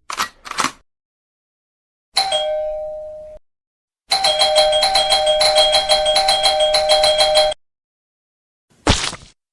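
A string of separate comedy sound effects: two quick sharp hits, a single bell ding that rings out and fades, then a bell ringing rapidly and evenly, about seven strikes a second, for about three and a half seconds, like an electric doorbell. Near the end comes a short falling swoosh.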